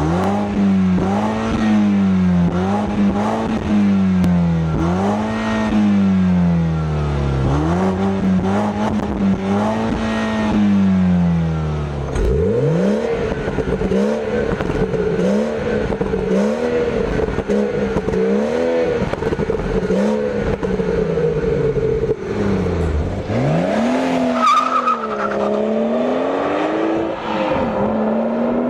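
Turbocharged BMW 3 Series sedan engines being revved repeatedly in a rev battle, pitch climbing and falling with each blip. After about twelve seconds the engine note changes character, as a second car takes its turn with revs that sweep up from a low idle.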